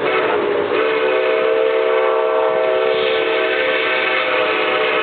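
Steam locomotive's whistle blowing one long, steady blast, several notes sounding together, over the noise of the passing train.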